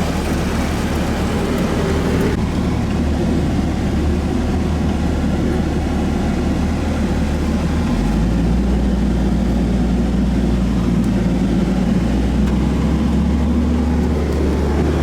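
Car driving, heard from inside the cabin: a steady low engine hum under road and tyre noise. The engine note shifts about eight seconds in.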